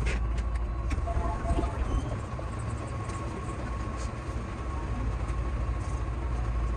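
Steady low rumble and hum inside the driver's cab of a Keihan 8000 series train standing still, with a few light clicks in the first second or so.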